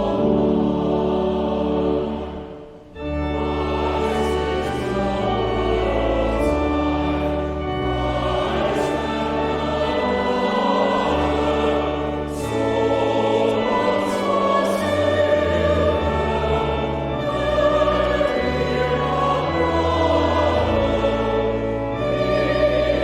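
Choir and congregation singing a hymn with pipe organ accompaniment, with a brief break about three seconds in before the next phrase begins.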